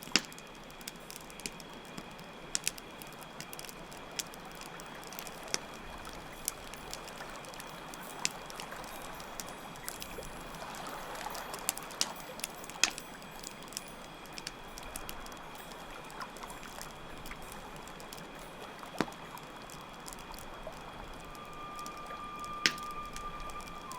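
Campfire crackling with scattered sharp pops over a steady water sound and continuous cricket chirping. A single held flute note comes in near the end.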